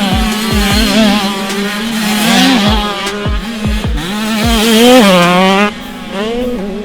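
Motocross dirt bikes revving hard, engine pitch rising and falling repeatedly as riders work the throttle and shift, over music with a thumping bass beat. The engine sound drops away near the end, leaving the music.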